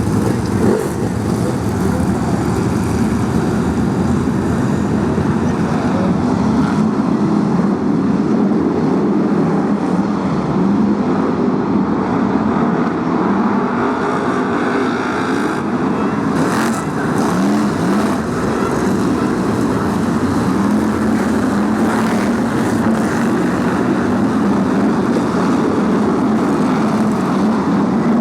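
A pack of BriSCA F1 stock cars running on the track, many big V8 engines heard at once, their pitches rising and falling as the cars pass and change speed.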